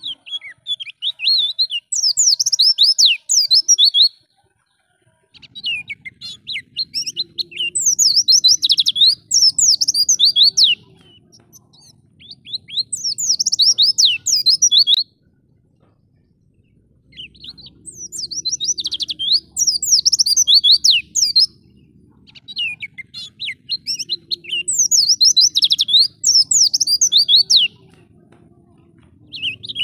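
White-eye (pleci) singing in rapid, high twittering phrases, in bouts of a few seconds each separated by short pauses.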